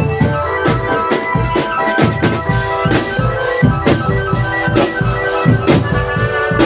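Marching drum band playing: a held, organ-like melody over a steady beat of drums.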